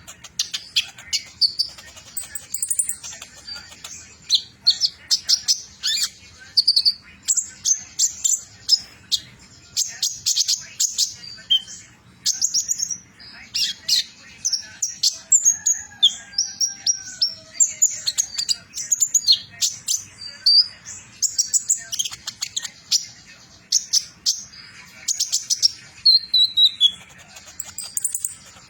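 Olive-backed sunbird (kolibri ninja) singing a rapid, high-pitched chattering song in long runs of quick chirps and short sweeps, broken by brief pauses: the fast, continuous 'trotol' delivery prized in song birds.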